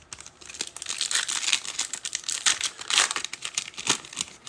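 A trading card pack's wrapper being torn open and crinkled, a dense run of irregular crackles.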